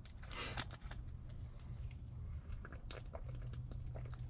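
Scattered small clicks and a brief rustle, typical of objects being handled, over a steady low hum.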